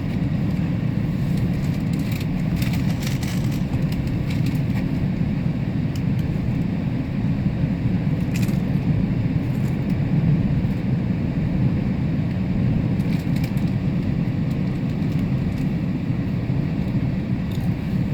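Steady low rumble of a moving GO Transit commuter train, heard from aboard, with a few light clicks and rattles over it.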